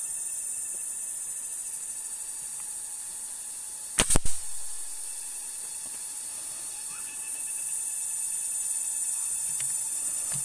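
A PCP air rifle fired once about four seconds in: a sharp crack followed at once by a quick knock or two, over a steady high-pitched hiss.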